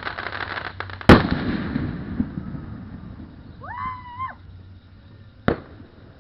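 Fireworks display: a burst of crackling at the start, then a loud sharp bang about a second in, and a second, lighter bang near the end.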